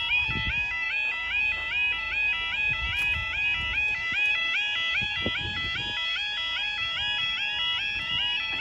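Level crossing warning alarms sounding their two-tone yodel, a high and a low note alternating quickly, with several alarms slightly out of step with each other.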